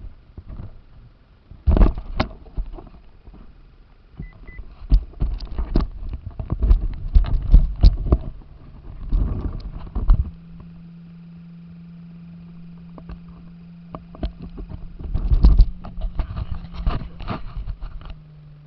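Radio-controlled car knocking and rattling in irregular bursts as it bounces over rough ground. A steady low hum comes in about halfway through.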